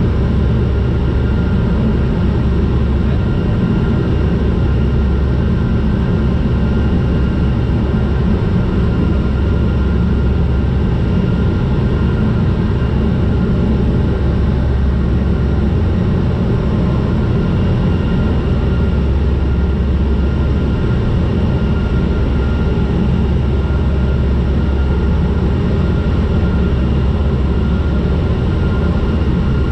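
Turboprop aircraft's engines and propellers droning steadily in flight, a deep constant hum with a few faint steady whines above it.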